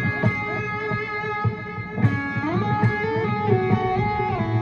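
Electric guitar playing a melodic line in D Lydian: held notes joined by slides up and down in pitch, over a quick low rhythmic accompaniment.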